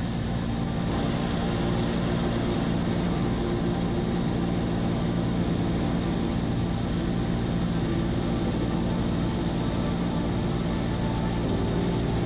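Seaplane's propeller engine running steadily at a constant pitch, with an even low hum and a hiss of air noise over it.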